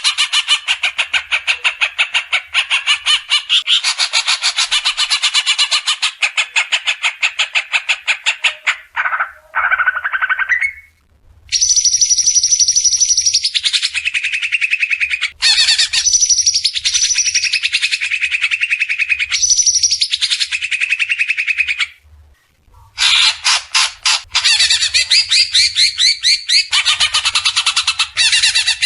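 Recorded songbird song: long, dense runs of very fast repeated notes, high and harsh, in several bursts broken by short pauses about eleven seconds in and again just past twenty-two seconds.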